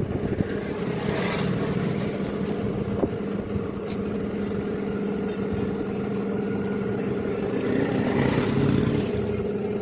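An engine running steadily at an even speed, holding a constant pitch with no revving.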